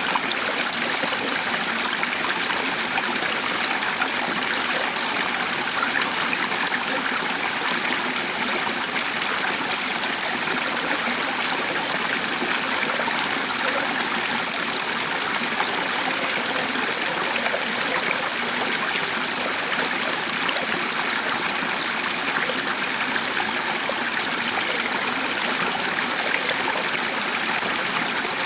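A stream of water running steadily, an even rush of flowing water that does not change in level.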